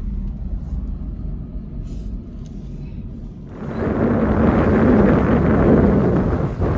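Toyota Land Cruiser 100 series driving on a dirt trail, a steady low rumble of engine and tyres. About halfway through, a louder rushing noise joins it.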